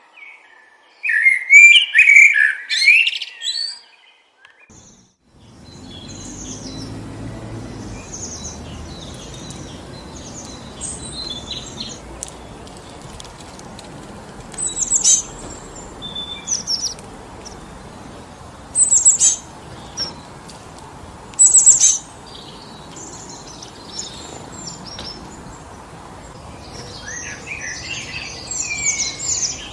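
Songbirds chirping and singing, loudest in a burst in the first few seconds. After a brief hush, steady wind through forest trees sets in, with sharp bird calls rising over it three times and more chattering near the end.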